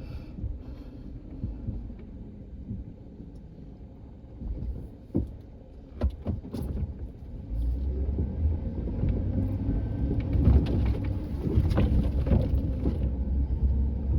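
A vehicle engine running with a low rumble, with a few sharp knocks in the middle; about halfway through the engine gets louder and steadier.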